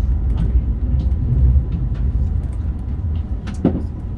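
Meitetsu Panorama Super limited express train running: a steady low rumble of wheels on the rails, with scattered light clicks and one sharper knock about three and a half seconds in.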